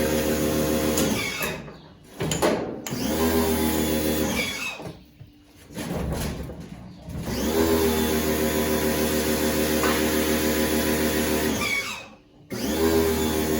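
Electric drill-driver running in repeated bursts of one to four seconds, each spinning up and winding down, while screws are driven out during disassembly of a washing machine.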